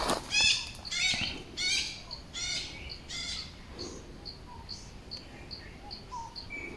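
Small birds calling in forest: a run of about six high, falling chirps, then a steady string of short high notes about three a second.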